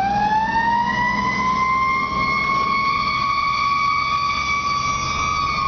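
Fire engine siren rising into one long wail and holding steady, beginning to drop near the end, over the low rumble of the truck's engine.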